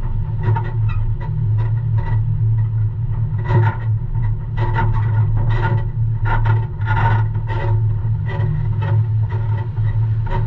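Diesel engine of a semi-truck running steadily at low revs while it reverses, with irregular clicks and knocks on top.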